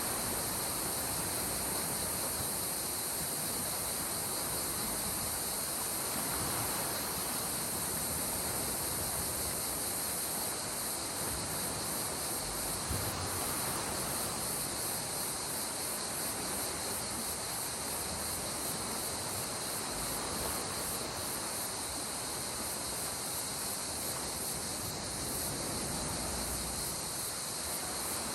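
Gentle sea waves washing ashore in slow swells every several seconds, under a steady high-pitched chorus of insects.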